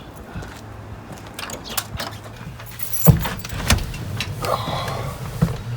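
Keys jangling and clicking, with a single loud knock about three seconds in, over a faint steady low hum.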